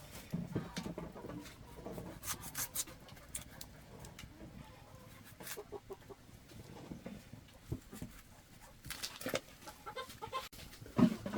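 Chickens clucking on and off, mixed with scattered light clicks and rustles; the loudest clucks come near the end.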